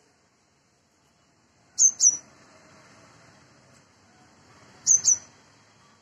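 A small bird calling: a pair of quick, sharp, high chirps, given twice about three seconds apart.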